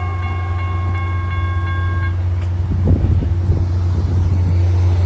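Trains at a station: a Caltrain electric multiple unit pulling away with a steady high whine from its traction motors that stops about two seconds in, over a constant low rumble, with a few knocks near the middle.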